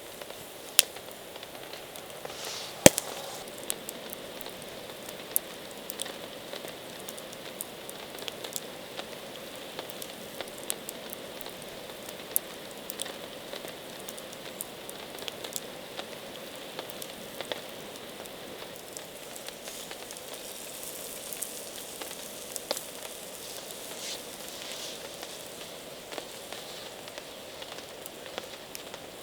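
Campfire crackling: irregular sharp pops and ticks over a steady hiss, the loudest pop about three seconds in.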